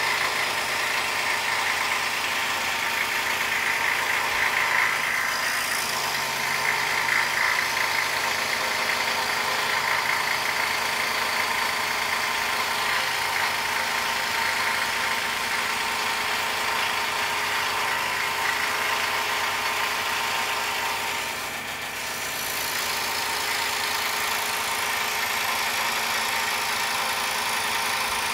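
Scroll saw running and cutting through a poplar board with an Olson Mach Speed No. 3 blade, a steady buzzing chatter from the reciprocating blade. It dips briefly about three-quarters of the way through, then carries on.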